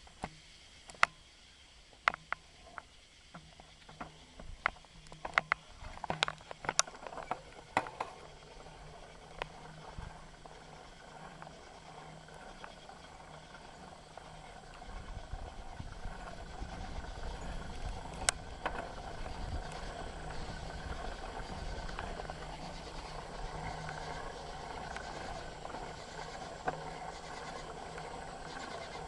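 Bicycle heard from a handlebar-mounted camera while riding. There are scattered sharp clicks and rattles at first, then from about halfway a steady rolling rumble of the tyres with small rattles throughout.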